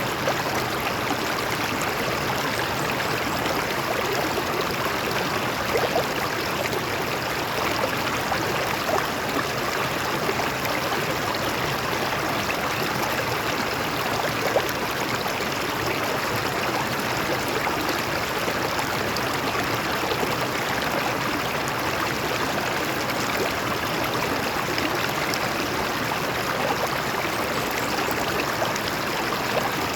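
Stream of water flowing over rocks: a steady rushing and splashing, with small gurgles and splashes here and there.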